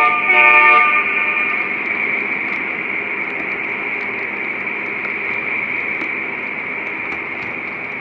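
Model diesel locomotive's sound-system horn, ending in two short blasts in the first second, then the steady running noise of the model train on the track.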